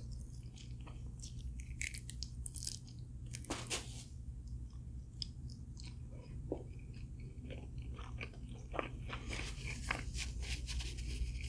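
Close-miked chewing and biting of food, with irregular crunches and small mouth clicks over a low steady hum.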